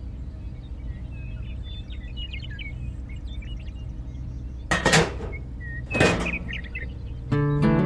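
Birds chirping over a steady low hum, then two short loud rushing bursts about a second apart, and music begins near the end.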